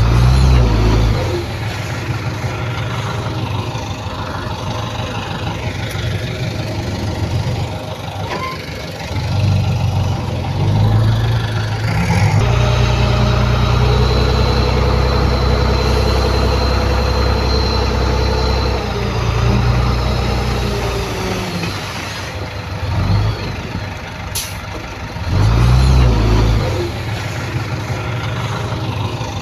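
Diesel engine of heavy earthmoving equipment running and revving in repeated surges, the longest lasting about six seconds in the middle, with a thin high whine over it.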